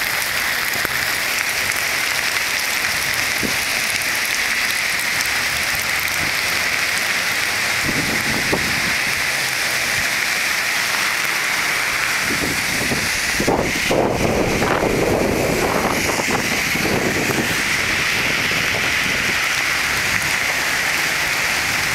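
Steady heavy rain falling and pattering on surfaces, an even hiss. About halfway through, a lower, louder stretch of noise rises over it for several seconds, then fades back to the rain alone.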